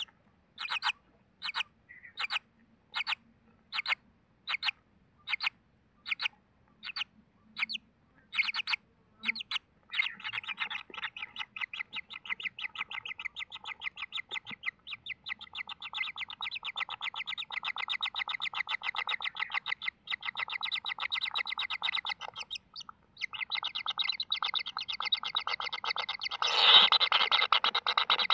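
Kingfisher chicks calling: single high calls about twice a second at first, then from about ten seconds in a rapid, continuous chatter of calls. The chatter breaks off briefly and comes back louder near the end.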